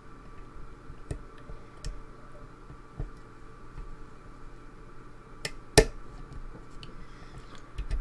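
Small, sharp metallic clicks and ticks of a pick and tension bar working the pins inside a lock during picking, scattered irregularly, the loudest a single sharp click a little under six seconds in.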